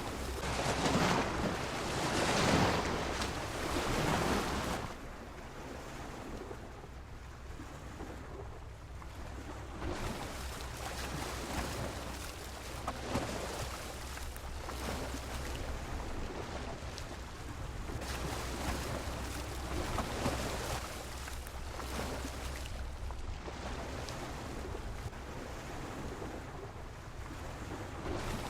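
Sea waves washing against a pier: a bigger wave surges in during the first few seconds, then smaller washes rise and fall, with a low rumble of wind on the microphone.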